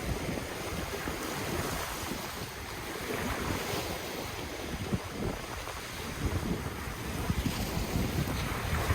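Ocean waves washing on the shore in a steady surf, with wind buffeting the microphone in low gusts that swell and ease.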